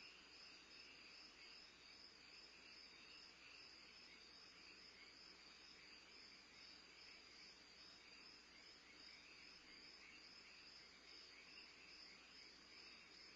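Faint crickets chirring steadily at night: a continuous high trill over a lower, pulsing one.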